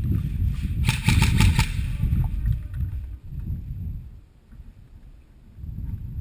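Airsoft gun firing a rapid burst of about six shots roughly a second in, over a low rumble on the microphone.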